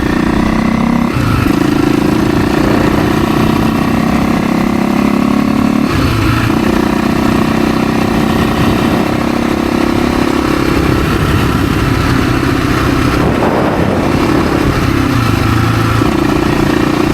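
Husaberg FE 350 dirt bike's single-cylinder four-stroke engine running under way on the road, with the engine note briefly dropping and picking up again about a second in, around six seconds in, and a few seconds before the end.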